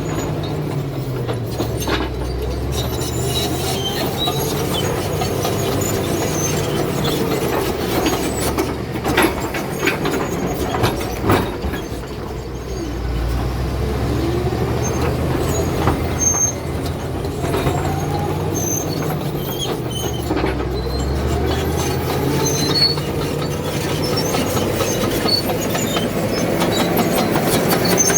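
Cat D7 crawler bulldozer at work: its diesel engine runs under changing load, rising and falling in pitch several times, while the steel tracks clank and squeal.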